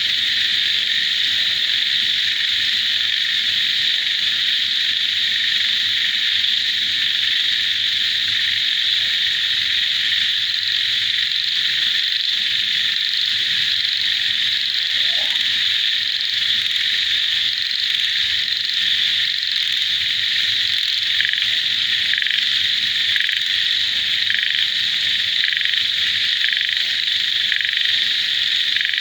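Dense chorus of frogs and insects calling together, a steady shrill buzz. Rapid, pulsing frog calls stand out more clearly in the second half.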